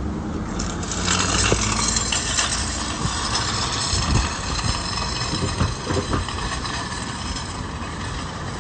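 A car engine running with road and cabin noise, with a few short knocks or bumps in the middle.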